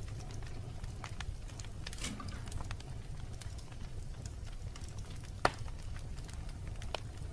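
Wood fire burning in a fireplace: a steady low rumble of flames with scattered crackles and one sharp, loud pop about five and a half seconds in.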